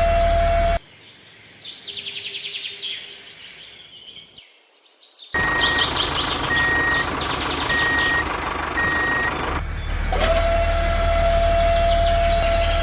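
A steady motor hum with a high whining tone cuts off abruptly about a second in. Bird chirps follow, then four evenly spaced beeps, with the chirping going on around them. The hum and whine return near the end.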